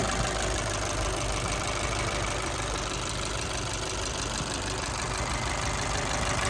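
Fiat 500's 1.4-litre turbocharged four-cylinder engine idling steadily.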